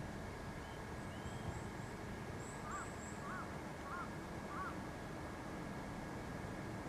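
A bird calls four times in the middle, short arched notes about two-thirds of a second apart. Behind it are a few faint high chirps, a steady high hum and even outdoor background noise.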